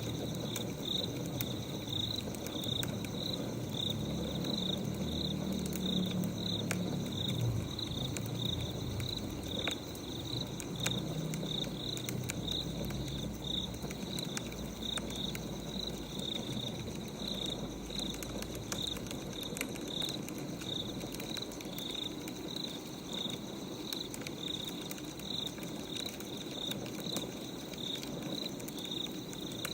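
Crickets chirping steadily, about two chirps a second, over a wood fire crackling with scattered small pops.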